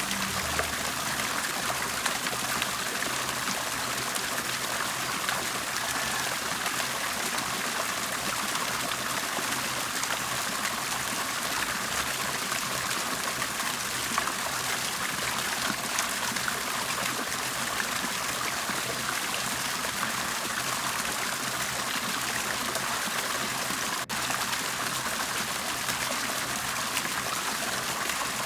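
Water bubbling and trickling steadily, with fine splashy detail and a split-second break in the sound late on.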